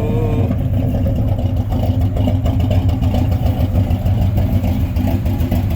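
Car engine idling steadily with a deep exhaust note through aftermarket pipes.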